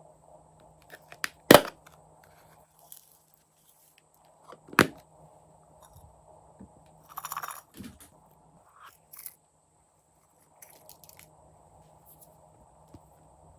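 Slime being worked by hand, with two loud sharp pops a few seconds apart, then a short crackly squish and scattered small clicks.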